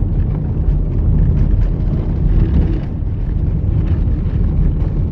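Steady low rumble of a car on the move, road and wind noise heavy on the microphone.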